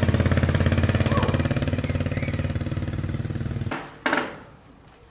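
A small engine running with a fast, even pulse, then cutting off abruptly a little before the end, followed by a brief noisy rustle or clatter.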